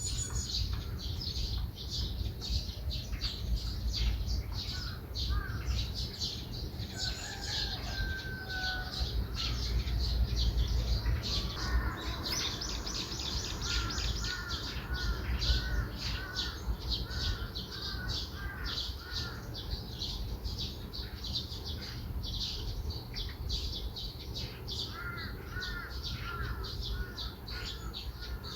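Morning birdsong: several small birds chirping constantly in quick high notes. Another bird sings a repeated series of lower, arched whistled notes in the middle and again near the end.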